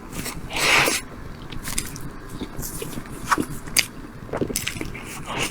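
Close-miked food and utensil sounds while a tiramisu is made and eaten: scattered sharp clicks and scrapes, with a short rustling swish just under a second in.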